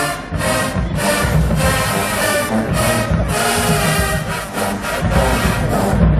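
HBCU marching band playing loudly: brass holding chords over drums and cymbals.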